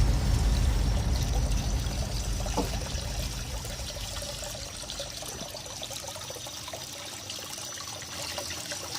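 Water from a small pond waterfall pouring and trickling into the pond, a steady splashing rush that fades gradually over the first several seconds.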